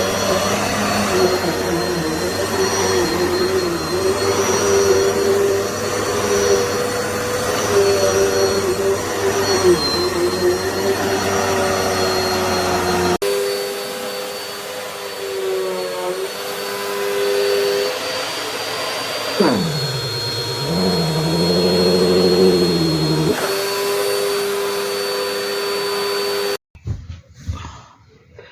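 Dirt Devil Multi-Surface+ upright bagless vacuum cleaner running steadily with a motor whine. Its pitch dips and recovers about two-thirds of the way in, and it cuts off suddenly near the end.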